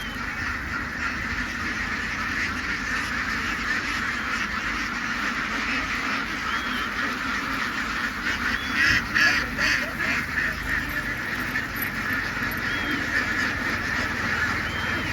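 A large flock of laying ducks quacking all at once in a continuous dense din, growing louder for a moment about nine seconds in.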